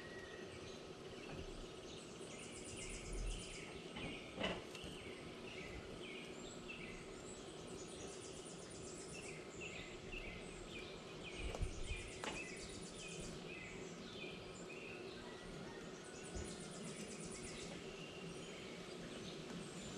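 Wild birds chirping in a busy outdoor chorus of short repeated calls, with bursts of high, buzzy trills every few seconds. Two sharp knocks stand out, near the start and about halfway through.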